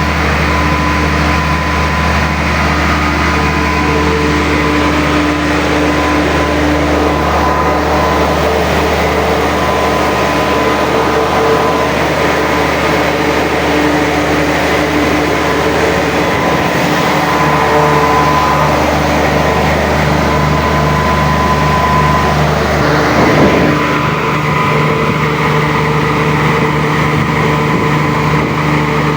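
Cummins L10 inline-six diesel engine running steadily, with a brief change in its note about three quarters of the way through.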